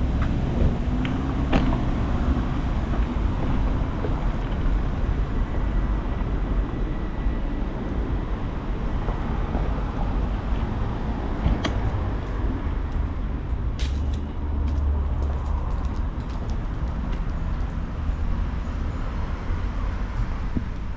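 Steady low rumble of wind and road or traffic noise picked up while cycling along city streets, with a few sharp clicks and rattles.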